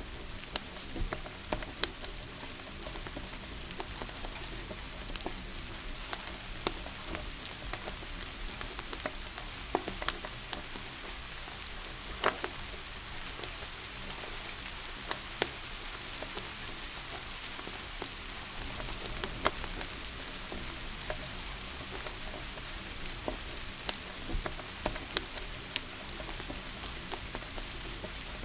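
Steady rain hiss with irregular sharp crackles and pops from a wood fire burning in a fireplace.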